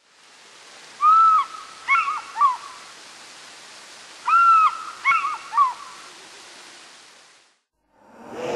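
A bird call sounds twice, each time one longer arched note followed by two short ones, over a steady hiss that fades in at the start and fades out near the end.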